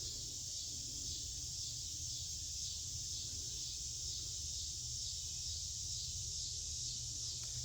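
Steady high-pitched insect chorus with a faint regular pulsing, over a low rumble.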